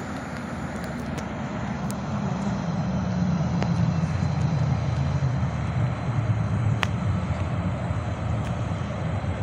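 Train approaching: a low rumble that grows louder over the first three seconds or so and then holds.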